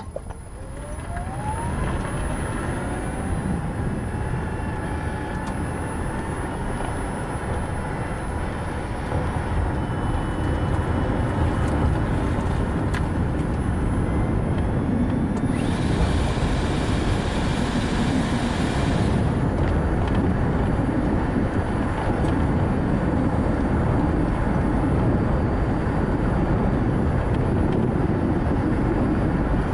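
Nissan Note e-POWER driving: steady tyre and wind noise that grows louder over the first couple of seconds as the car picks up speed. At the very start a thin whine falls and then rises in pitch, and a few seconds of brighter hiss come just past the middle.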